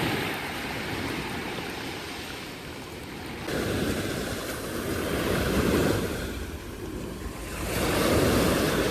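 Rushing noise that swells and fades in slow surges, loudest about halfway through and again near the end.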